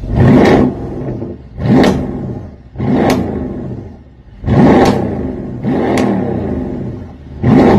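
Car engine being revved hard through its exhaust about six times in a row, each rev climbing quickly in pitch and then falling back toward idle.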